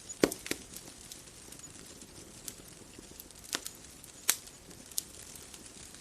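Wood fire crackling: scattered sharp pops over a low steady hiss. The loudest pops come about a quarter of a second in and just past four seconds.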